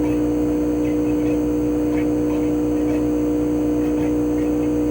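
CHOFU AE-2844PX mini-split outdoor unit running steadily in cooling mode: a GMCC single-rotary inverter compressor giving an unchanging two-tone hum over the whoosh of its propeller fan.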